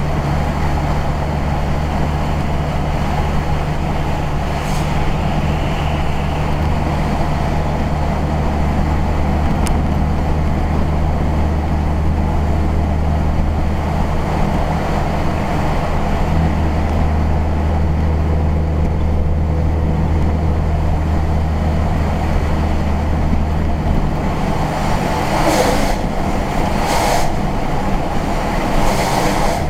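Steady drone of a road vehicle driving, heard from inside: a low engine hum under tyre and road noise. Near the end, three brief whooshes, each over in about half a second.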